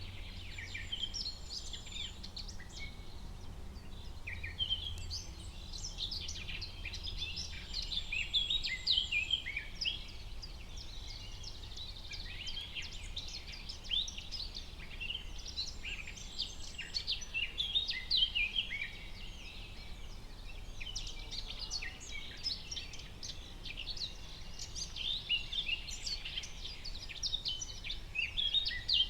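Forest ambience: many songbirds chirping and trilling at once, with occasional thin high whistles, over a faint low background rumble.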